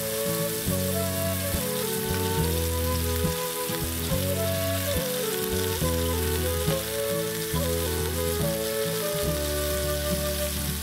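Diced tomatoes sizzling in hot oil in a frying pan, a steady hiss, under background music with low held notes that change about every second.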